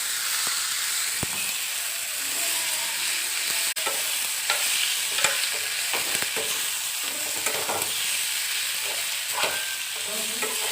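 Onion, tomato and chillies sizzling in hot oil in a pan while a spoon stirs them, with repeated scrapes and light knocks against the pan over a steady frying hiss.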